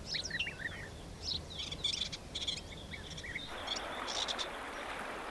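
Small birds chirping and singing in quick, high, rising and falling calls. About three and a half seconds in, the steady rush of flowing river water comes in suddenly and continues.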